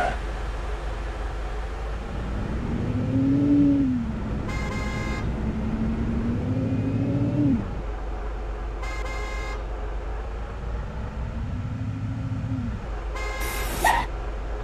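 Heavy truck engine revving up and easing off twice as it labours over rough ground, with three short horn toots, the last of them followed by a brief rising squeal.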